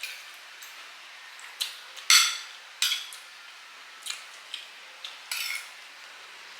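Spoons clinking and scraping against plates and soup bowls while eating, a string of separate sharp clinks with the loudest about two seconds in.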